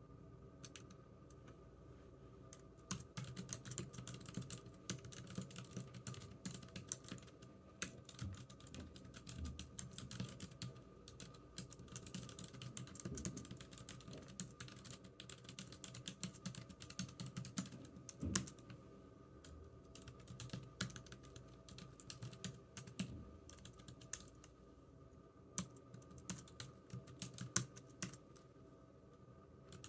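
Computer keyboard typing: irregular runs of key clicks, starting about three seconds in, with brief pauses between bursts.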